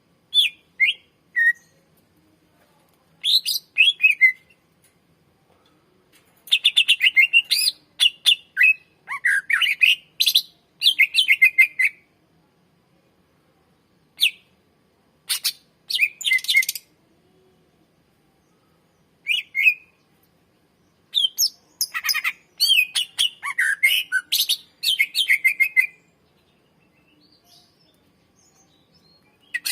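Greater green leafbird (cucak ijo) singing loud, rapid bouts of chirps and whistled sweeping notes, broken by pauses of a second or two between phrases.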